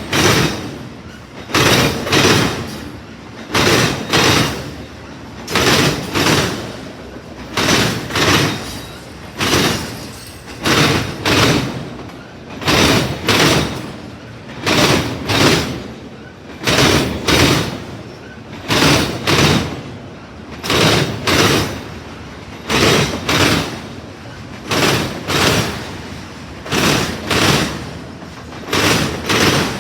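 CSX freight train rolling past, its car wheels clattering over rail joints in repeating paired clacks, a pair about every two seconds, over a steady rumble.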